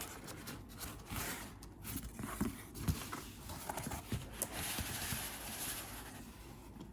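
A product box being handled: rustling with scattered light knocks and taps.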